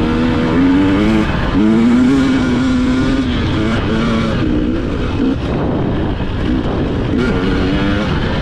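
Dirt bike engine being ridden hard, revving up and dropping back several times as the rider accelerates and shifts, over a steady rush of wind.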